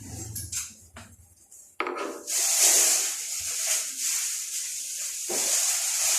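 Scraping and rubbing noise with a hiss, starting suddenly about two seconds in and going on steadily.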